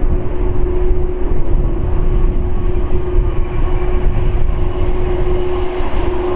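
Jet airliner engines running, a steady low rumble with a constant hum underneath.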